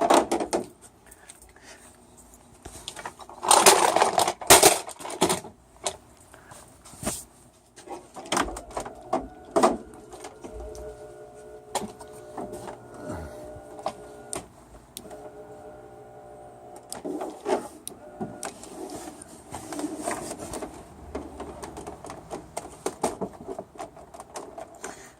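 Knocks and clatter as a heavy plasma TV is loaded onto a bench-mounted TV lift, loudest about four seconds in. Then the lift's electric motor runs with a steady hum for several seconds, raising the TV.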